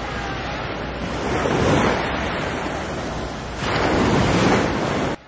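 Sea waves washing onto the shore, with two louder surges, and wind on the microphone. The sound cuts off suddenly near the end.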